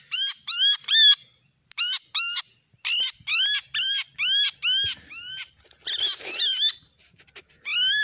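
A bird calling: a harsh, upward-arching note repeated quickly, about three a second, in runs broken by short pauses.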